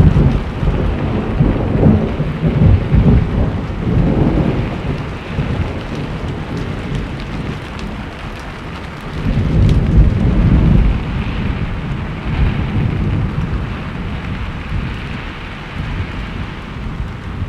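Steady heavy rain with rolling thunder: deep rumbles swell in the first few seconds and again about nine seconds in, then die away under the rain.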